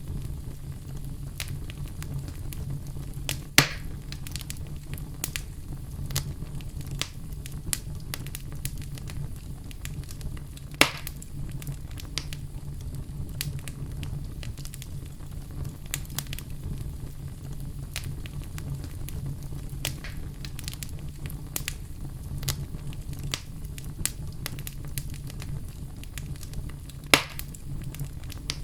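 Wood fire burning in a fireplace: a steady low rumble of the flames under constant irregular crackling, with three louder pops, a few seconds in, about halfway and near the end.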